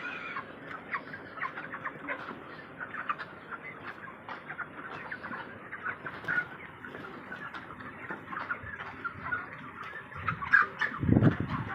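A flock of chickens calling, with many short clucks and chirps overlapping without a break. Near the end a louder low rumble or thump comes in briefly.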